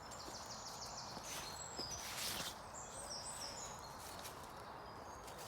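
A small songbird singing two rapid, high trilled phrases over a steady outdoor background hiss, with a brief rustling noise about two seconds in.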